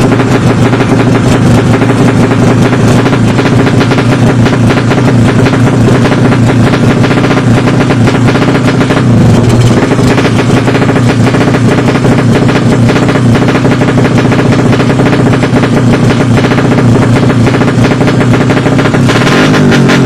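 Drag-racing motorcycle engine running loud at high, held revs, its exhaust firing in a rapid crackling stream. The pitch dips and recovers briefly about halfway through.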